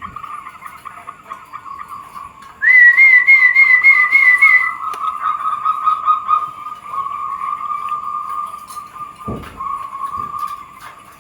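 Zebra doves (perkutut) cooing: a steady, wavering trilled cooing runs throughout, and a louder warbling call with about seven quick pitch wobbles rises over it from about two and a half seconds in for some two seconds.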